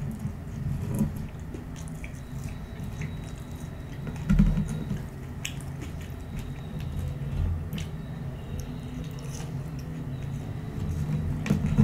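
Close-miked chewing of McDonald's french fries, with soft wet mouth clicks throughout. A single louder low thump comes about four and a half seconds in.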